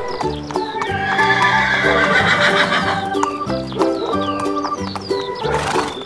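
A horse whinny sound effect about a second and a half in, over cheerful background music, with a short noisy burst near the end.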